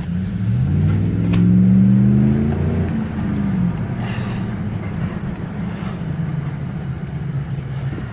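Car engine revving up over about a second and a half, then easing back down and running steadily.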